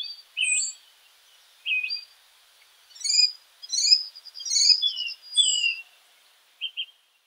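Birds chirping: a run of short, high chirps and quick whistled notes, busiest in the middle and thinning out near the end.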